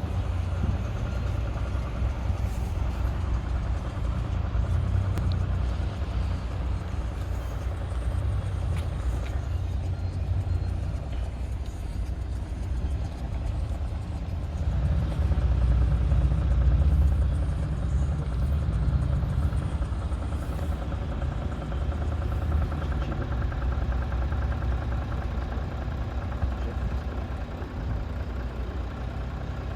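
Audi A4 3.0 TDI V6 diesel engine running, with a rattling from the engine bay that the owner puts down to a defective oil pump. It runs a little louder for a few seconds around the middle.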